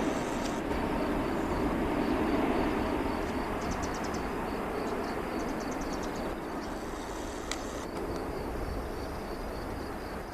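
Airbus Beluga transport jet's turbofan engines rumbling as it rolls out after landing, the noise steadily fading.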